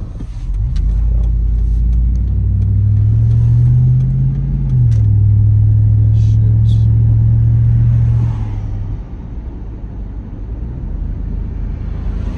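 4.8 L LS V8 accelerating, its low exhaust drone rising in pitch, dropping abruptly about 4.5 s in at a gear change, then holding steady before easing off near 8 s. The exhaust has a leak that the owner plans to weld.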